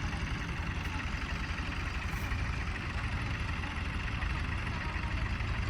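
Tractor diesel engine running steadily with an even, fast low pulse and no revving.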